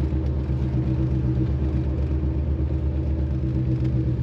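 Corvette's engine running at a steady cruise while the car is driven along the road, a low, even drone with a slight pulse.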